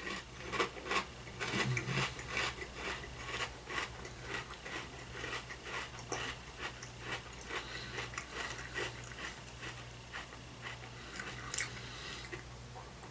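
A mouthful of crunchy Catalina Crunch cinnamon toast cereal being chewed close to the microphone: irregular crunches, several a second, heaviest in the first few seconds and then lighter, over a low steady hum.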